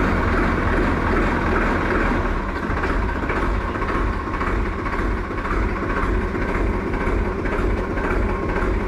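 A motor running steadily with a deep rumble underneath.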